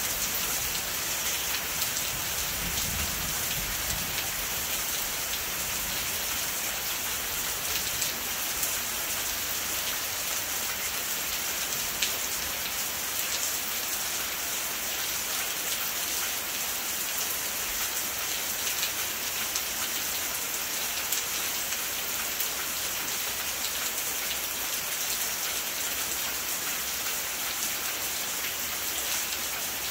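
Steady rain falling, with many single drops heard as small ticks over an even hiss. There is a brief low rumble about three seconds in.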